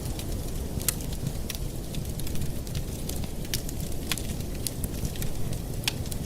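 Wood fire burning in a fireplace: irregular sharp pops and crackles over a steady low rumble of the flames.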